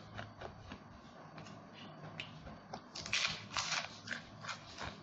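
Mouth chewing roast duck: a run of wet mouth clicks and crunches, loudest and densest about three seconds in.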